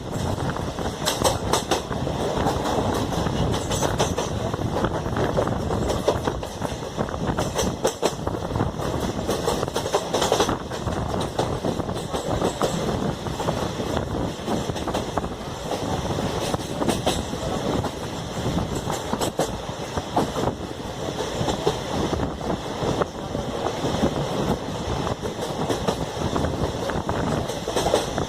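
Koyna Express passenger coaches running along the track: a steady rumble of wheels on rails, with short sharp clicks scattered through it as the wheels pass rail joints.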